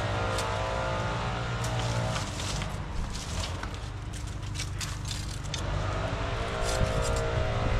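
A gas-powered engine running steadily on tree-trimming work. Its sound thins and drops for a few seconds in the middle, then returns, with scattered short cracks and clicks over it.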